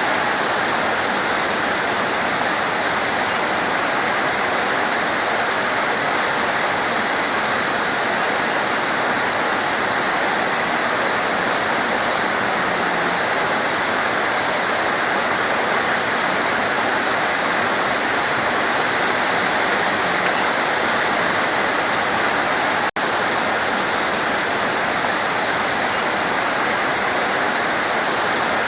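Torrential rain falling in a steady, dense hiss with no break in intensity. The sound cuts out for an instant about three quarters of the way through.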